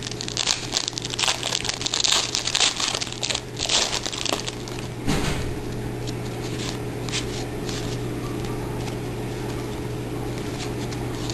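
Plastic wrapper of a trading-card pack crinkling as it is torn open and handled, busiest for about the first five seconds, then quieter with scattered faint clicks. A steady low hum runs underneath.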